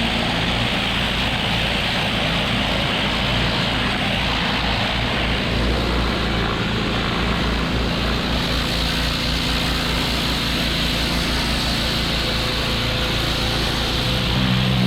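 Pressure washer running steadily: a constant engine drone under the hiss of the high-pressure spray on brick.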